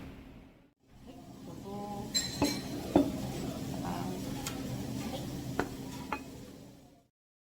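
Tableware clinking: cutlery and dishes knocking, with several sharp clinks over a steady background hum. The sound cuts off abruptly about seven seconds in.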